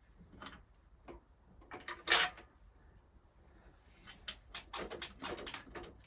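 Knocks and clicks of exhaust parts and fittings being handled and shifted while an exhaust pipe is fitted loosely to a motorcycle. There is one louder knock about two seconds in, then a run of quicker clicks and rattles near the end.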